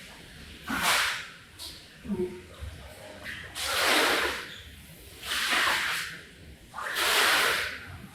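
Long swishing strokes across a soaked rug being cleaned, four loud ones about every one and a half to two seconds, with quieter gaps between.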